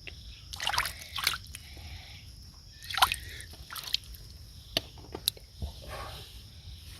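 Shallow water sloshing and splashing in short bursts, three main splashes with a few sharp clicks between them.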